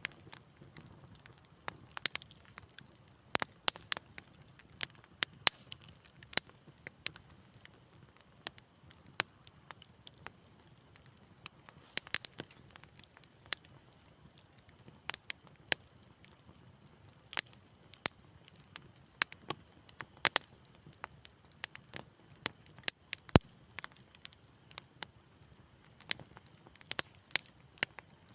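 Wood fire crackling in a fireplace: irregular sharp pops and snaps, several a second at times, over a faint low rumble of the flames.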